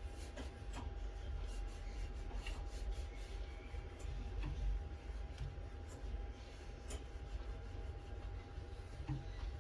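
Faint scattered taps and rubbing over a steady low hum and a faint steady whine.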